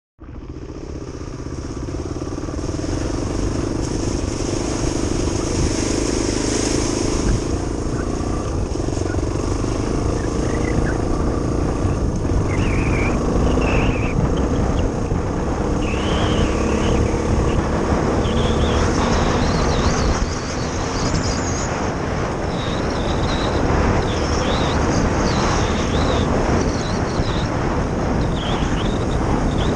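Suzuki DR350SE's single-cylinder four-stroke engine running steadily as the bike is ridden along a rough gravel and mud track, with wind rumbling on the microphone.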